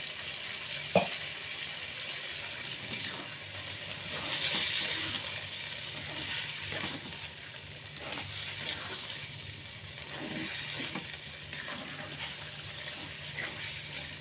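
Chicken and chicken feet sizzling and simmering in a spice sauce in a nonstick wok, stirred with a plastic spatula that scrapes and knocks against the pan. A sharp knock about a second in, with a low steady hum underneath.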